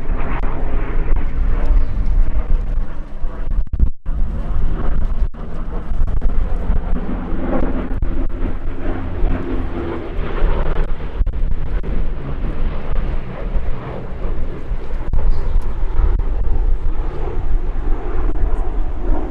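Twin Allison V-12 piston engines of a Lockheed P-38L Lightning running, a loud drone with heavy low rumble and a pitch that drifts up and down. The sound drops out briefly about four seconds in and again about a second later.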